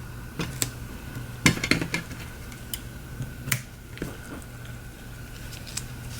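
Scattered light clicks and taps of small tools and fingers handling a phone and its adhesive strips, about a dozen sharp ticks at uneven intervals, over a faint steady hum.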